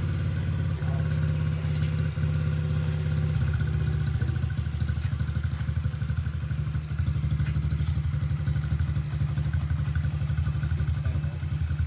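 Small motorcycle engine idling steadily, with a fast, even low pulsing.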